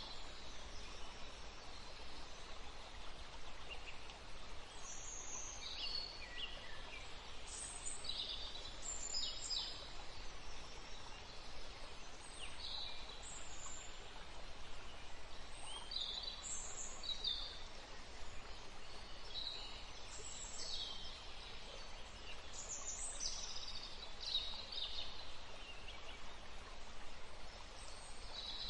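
Several wild songbirds singing and chirping in short, overlapping phrases, over a steady background hiss.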